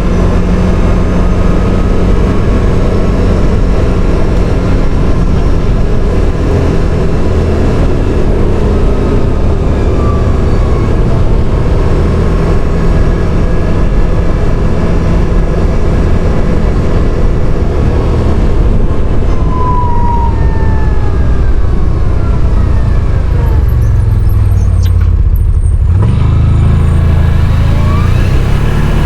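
CFMoto CForce 850 quad bike running on the road, a loud steady rumble of engine and road noise with the engine pitch rising and falling. Near the end the sound eases off briefly, then picks up again.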